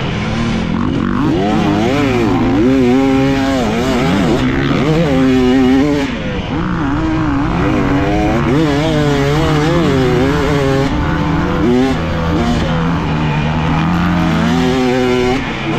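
Dirt bike engine being ridden hard, revving up and down again and again as the throttle is opened and shut.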